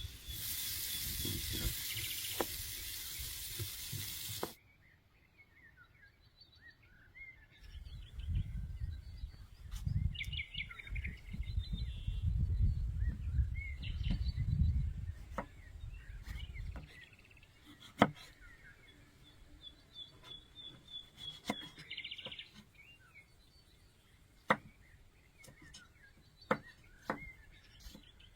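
Small birds chirping outdoors. Scattered sharp knocks come through, the loudest about eighteen seconds in. The first few seconds hold a loud steady hiss that cuts off suddenly, and a low rumble runs through the middle.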